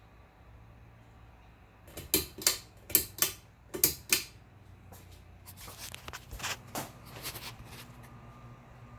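Ceiling fan pull-chain switch clicking in three quick pairs, as if pulled and released three times, then several fainter clicks. Near the end the fan motor starts a steady hum.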